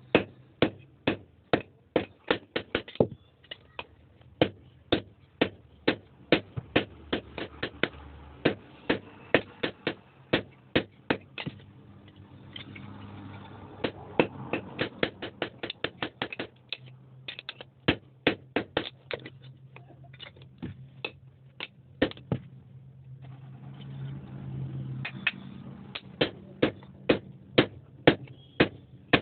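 Hand hammer striking metal on an anvil in quick runs of two to three blows a second, with two short pauses in which a low steady hum is heard.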